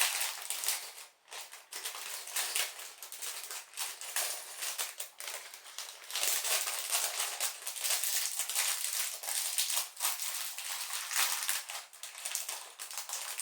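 Small plastic LEGO pieces rattling and clicking against each other while plastic parts bags crinkle as they are handled, a dense, continuous rustle of many small ticks.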